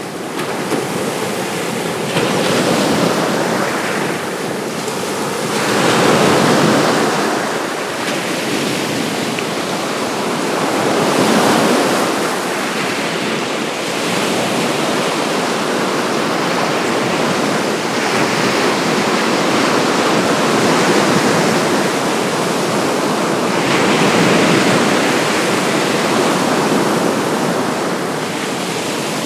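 Baltic Sea waves washing onto the shore, a continuous rush that swells and falls back every few seconds.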